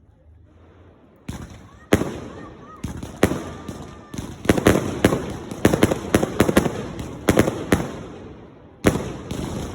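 Fireworks exploding: after a short quiet start, a rapid run of sharp bangs with crackling between them begins about a second in. There is a brief lull near the end, then another bang.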